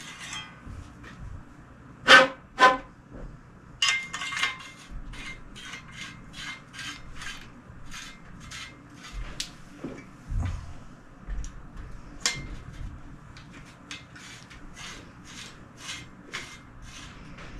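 Choke tube being screwed into a 12-gauge Benelli Vinci shotgun barrel with a choke wrench: metal threads scraping in short repeated strokes, about two a second, with a couple of sharp metal clicks a little after the start and one more partway through.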